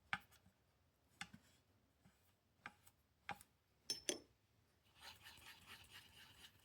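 Faint taps of a paintbrush against a watercolour palette, about six scattered over the first four seconds, then a soft scratchy swishing from about five seconds in as the brush mixes paint into a dark colour.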